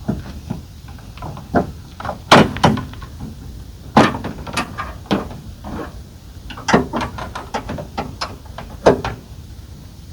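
Irregular clunks, clicks and rattles of gear being handled and stowed, with four or five louder sharp knocks a second or two apart.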